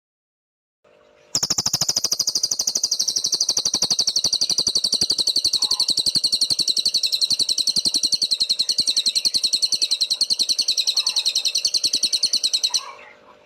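A cililin songbird singing a long, rapid, unbroken trill of high, sharp notes, about nine a second. A steady low hum runs under it. The trill cuts off near the end.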